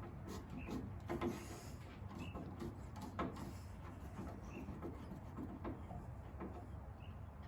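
Scattered knocks and clicks of hand work: plastic parts and wiring being handled and fitted inside a car.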